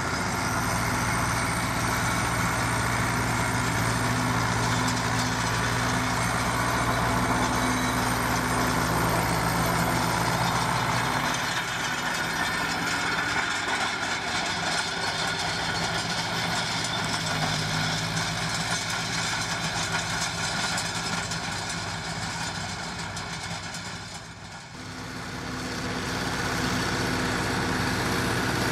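Zetor Crystal tractor's diesel engine running steadily. The sound dips briefly about 24 seconds in, then picks up again.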